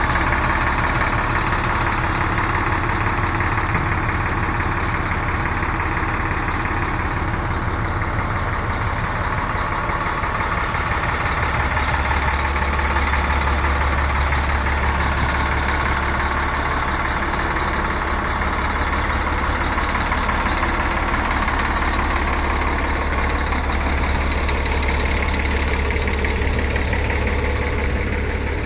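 Scania diesel bus engine running steadily at a low, even speed.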